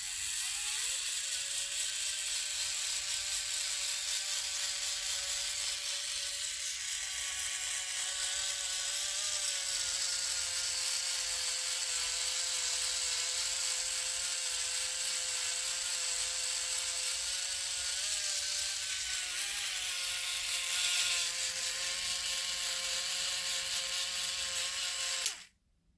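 Small battery-powered DC motor running steadily with a whine and hiss, its pitch wavering slightly, then cutting off suddenly near the end.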